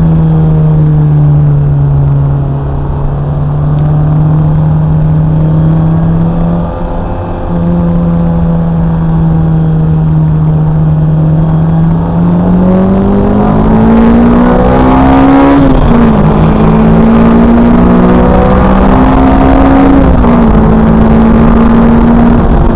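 Lotus Exige engine heard from inside the cabin, running at a steady, even note for the first half, then revving up under acceleration from about halfway. The revs drop sharply once, as at a gear change, climb again, dip a second time near the end and then hold steady.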